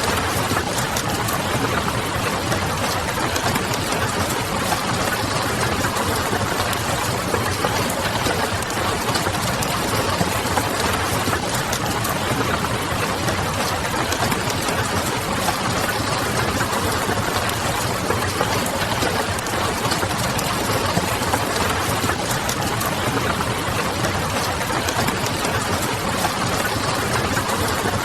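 Steady rain over a constant low hum, with fine crackles from a wood fire scattered throughout.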